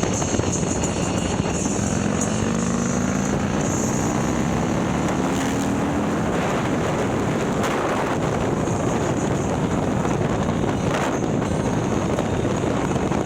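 Harley-Davidson Milwaukee-Eight V-twin, bored out to 130 cubic inches with a ThunderHeader exhaust, running under way on the road. Its pitch rises steadily over the first six seconds or so as the bike gathers speed, then wind rush over the microphone takes over.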